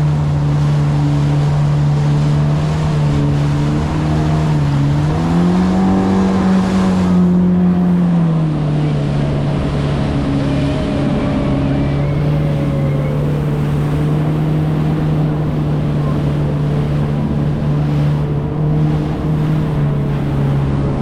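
Yamaha FX HO jet ski's four-cylinder four-stroke engine running under way with a steady drone. Its pitch rises about five seconds in, holds for a couple of seconds, then drops back to the earlier steady speed. Rushing water and wind noise run underneath.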